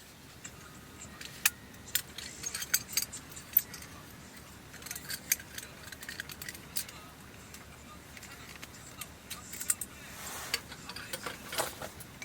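Irregular light clicks and clinks of small hard objects being handled, coming in clusters, with a brief rustle shortly before the end.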